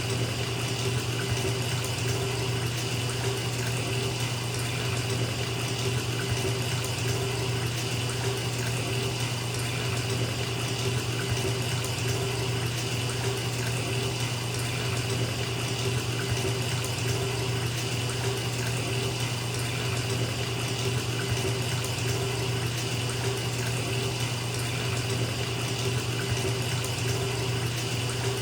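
Bathtub tap running, water pouring steadily into the filling tub, with a constant low hum beneath the splashing.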